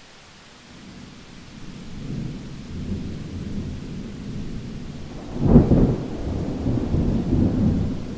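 Thunder over steady rain: a low rumble builds through the first few seconds, peaks in a sharper clap about five and a half seconds in, then rolls on.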